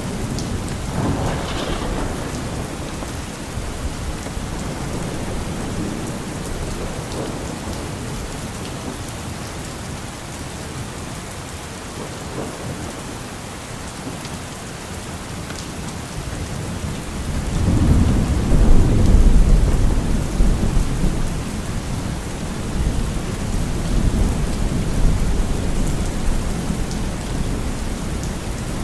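Steady rain with rolling thunder. A low rumble swells up about two-thirds of the way through, and a shorter one comes near the start.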